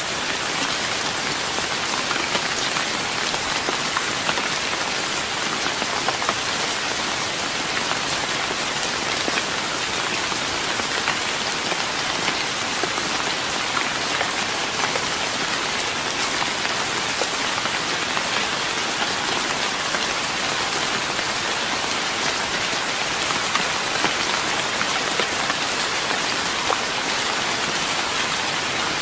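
Steady rain falling on a wooden deck, a dense even patter of drops with no let-up.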